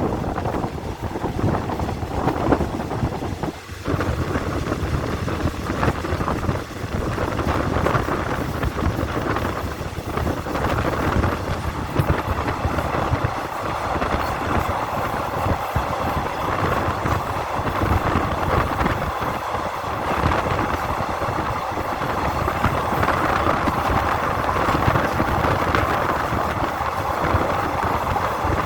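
Passenger train running on the rails, a steady, unbroken noise throughout.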